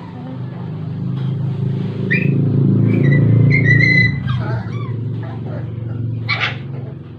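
A low engine rumble swells over about four seconds and then eases off, like a vehicle passing by. A few short high-pitched whines or chirps sound over it partway through.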